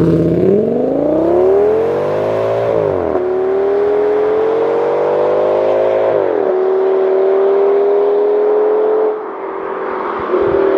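Audi S6's 5.2-litre naturally aspirated V10 accelerating hard, its note rising in pitch through the revs. The pitch drops twice, about three and six seconds in, as the six-speed automatic upshifts. About nine seconds in the engine sound falls away.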